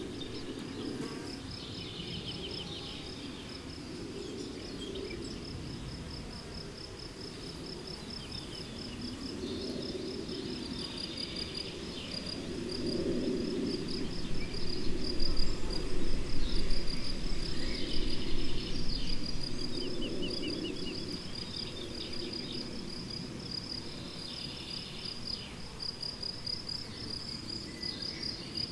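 Crickets chirping steadily in a meadow, a continuous fast high-pitched pulsing, with faint bird calls scattered over it. Midway a low rumbling sound swells for several seconds and then fades back.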